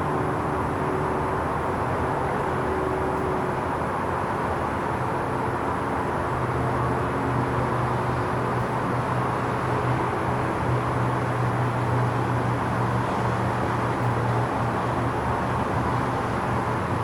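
Steady outdoor background noise: a constant hiss and drone with a low hum that grows stronger for several seconds in the middle and then eases off.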